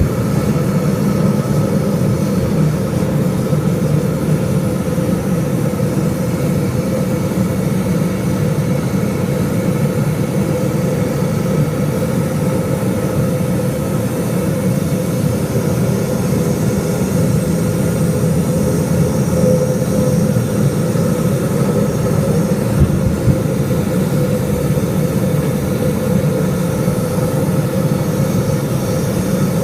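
Canyon tour plane's engines running with a steady, loud drone during the takeoff run.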